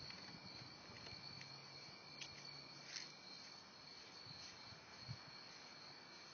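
Faint, steady chorus of crickets at night, a constant high-pitched trill, with a few soft knocks.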